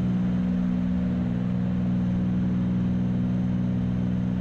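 Light airplane's piston engine and propeller droning steadily in the cabin during the climb, one even, unchanging tone.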